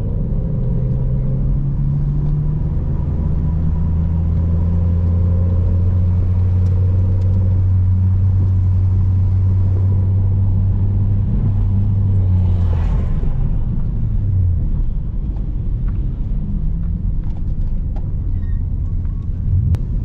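Nissan Altima's engine running at a steady low speed with the manual gearbox, a constant low drone that eases off about fourteen seconds in. A brief hiss rises and falls near the middle.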